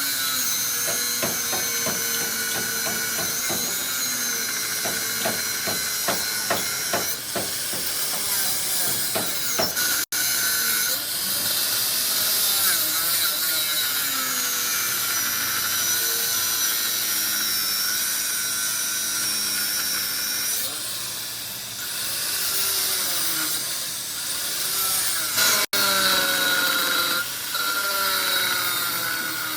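Metalworking power tools running, with a steady high whine over rough grinding and cutting noise and some irregular knocking. The sound breaks off abruptly twice, about ten and twenty-six seconds in.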